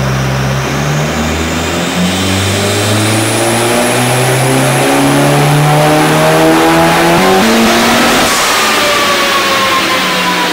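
Mitsubishi Lancer Evolution IX's turbocharged 2.0-litre 4G63 inline-four at full throttle on a chassis dyno in fourth gear, its pitch climbing steadily through a power run. About seven to eight seconds in it backs off with a brief rush of noise, and the revs fall away to the end.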